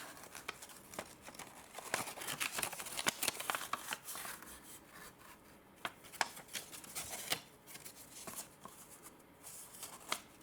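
Hands handling a watch's paper manuals and plastic packaging: irregular clicks, taps and rustling, busiest about two to four seconds in.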